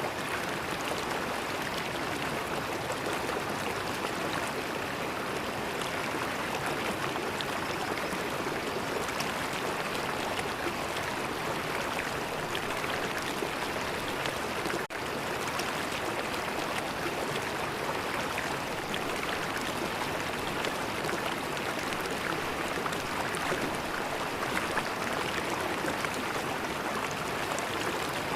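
River water flowing steadily, an even rushing and splashing with no let-up, broken only by a momentary dropout about halfway through.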